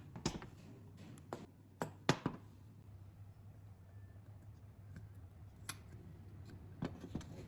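Hand work with tools and small metal engine parts: a handful of sharp clicks and taps, the loudest about two seconds in, over a steady low hum.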